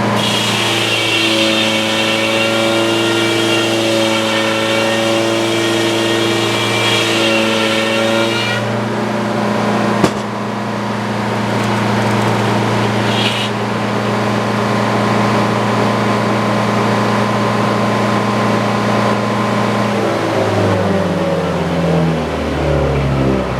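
Sawmill engine running steadily under load. For the first eight seconds or so a higher whine rides over it as the saw cuts white pine; about ten seconds in there is a sharp click, and near the end the pitch falls in steps.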